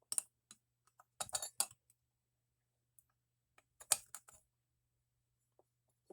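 Small metal parts of a toy steam engine's electric boiler clicking and clattering as they are worked loose by hand: one click near the start, a quick run of clatters about a second in and another about four seconds in.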